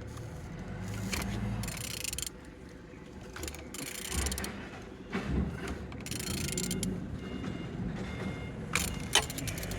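A removed used engine being turned over by hand to check that it rotates freely: irregular mechanical scraping and rattling, with a few sharp clicks about nine seconds in. It turns without binding.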